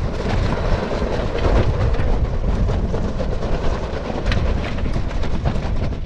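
Wind buffeting the microphone aboard a sailboat under way: a steady heavy rumble and rush, with scattered light knocks.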